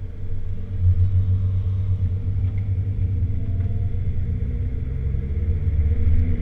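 Porsche 996 Turbo's twin-turbo flat-six engine pulling under load, heard from inside the cabin with road rumble, its pitch climbing through the second half as the car accelerates.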